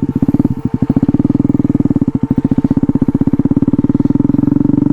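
KTM Duke 250's single-cylinder engine running at low, steady revs, a rapid even throb.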